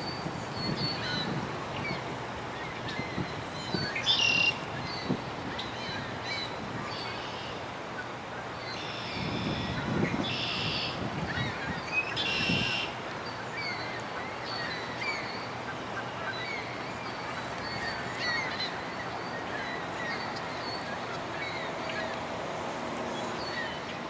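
Wild birds calling: a scatter of short high chirps throughout, with three louder, rasping calls about four, ten and twelve seconds in, over a steady rush of background noise.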